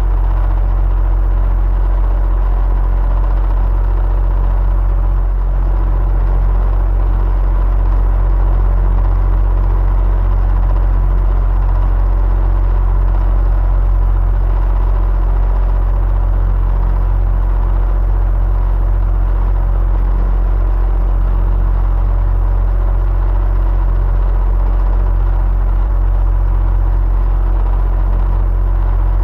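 Electric fan running steadily: a constant deep hum and whir, with a faint thin steady tone above it.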